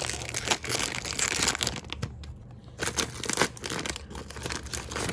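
Plastic wrapper of a packaged snack bun crinkling and tearing as it is opened by hand: a run of irregular crackles, with a short lull about two seconds in.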